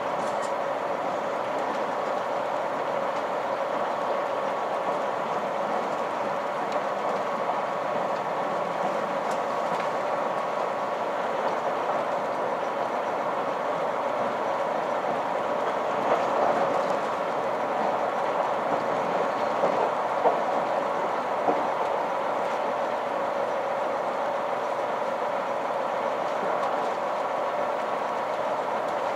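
Running noise of a KiHa 261 series diesel express train at speed, heard from inside the passenger car: a steady drone of wheels on rail with a steady hum under it. It gets louder for a few seconds around the middle, with several sharp knocks from the track.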